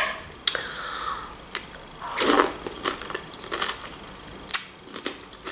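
Close-miked chewing of a mouthful of fresh vegetable salad: wet crunches and small mouth clicks, with a fuller crunch about two seconds in and a sharp smack near the end.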